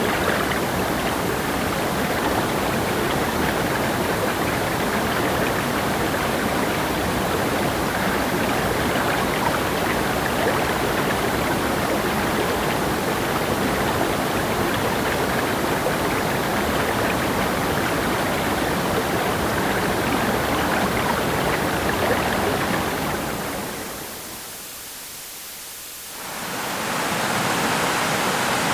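River water rushing steadily. Near the end it fades down, and a second river recording fades in about three seconds later.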